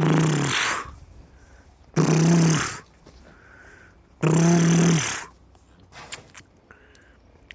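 Cow mooing: three short low moos, each under a second, about two seconds apart.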